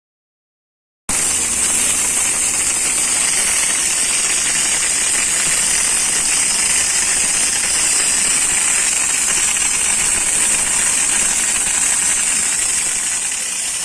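Steady, loud hiss of a high-pressure washing jet, cutting in about a second in and easing slightly near the end.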